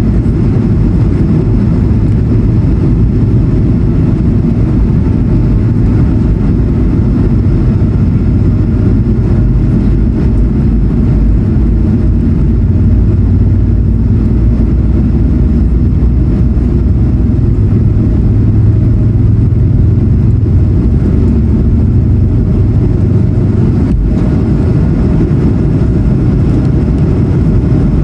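Steady low drone inside the cabin of an Airbus A220-100, its Pratt & Whitney PW1500G geared turbofan engines running at an even power.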